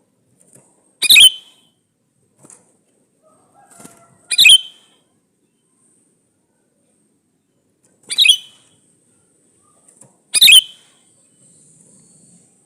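Male sooty-headed bulbul (kutilang) calling: four short, loud call phrases spaced a few seconds apart, with faint soft notes in between, the calls a male gives to attract a female.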